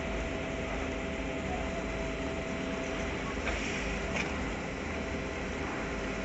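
C62 steam locomotive running a steady mechanical hum with a few fixed tones over a low rumble. Two short knocks come about three and a half and four seconds in.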